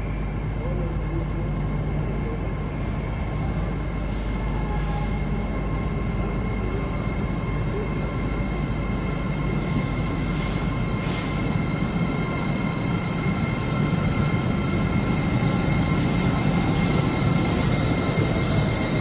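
LNER Azuma (Hitachi) passenger train approaching along the platform road and running past close by, with a steady hum and whine throughout. It grows louder over the last few seconds, and a loud rushing hiss sets in as the carriages go by.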